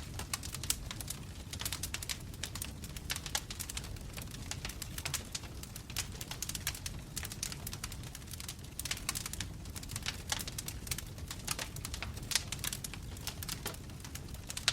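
Wood fire burning in a fireplace: many irregular crackles and pops from the logs over a steady low rumble.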